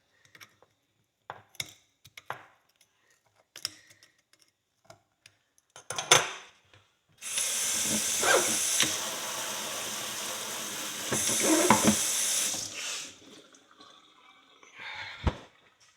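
A few light scrapes and ticks of a metal pick working dirt out of an old horseshoe. Then a tap runs for about six seconds, with a couple of knocks under the running water.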